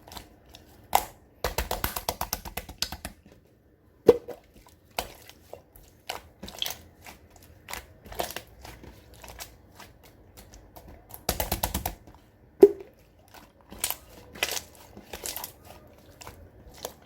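Clear slime being worked by hand: scattered sticky clicks and pops, with two short runs of rapid popping, one about a second and a half in and one near the end.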